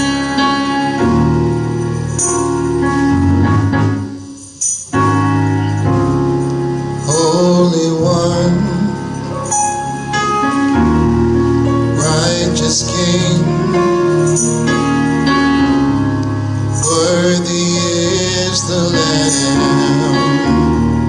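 Gospel choir singing with organ accompaniment and a tambourine, briefly dropping off about four seconds in before coming back in full.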